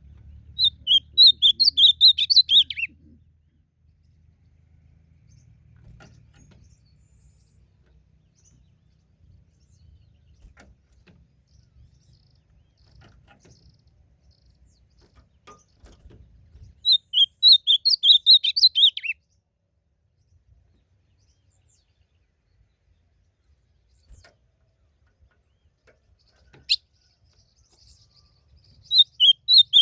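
Ultramarine grosbeak (azulão) singing: three short, loud song phrases of quick warbled notes, each falling lower at its end, spaced about fourteen seconds apart. A single sharp click falls between the second and third phrases.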